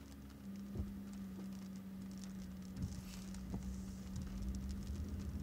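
Light rain pattering in scattered faint ticks, over a steady low hum and rumble.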